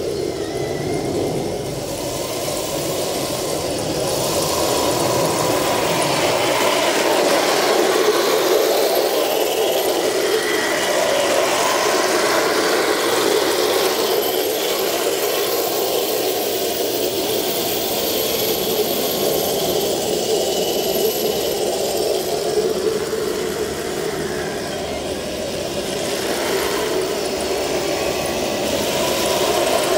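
Radio-controlled Leopard tank model running on its new motor and transmission: a steady mechanical drive noise that swells and dips a little in level.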